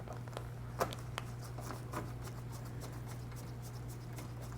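Scattered light clicks and taps of hands and tools handling the disco light's housing while a part is being taken off. The sharpest click comes a little under a second in, and a steady low hum runs underneath.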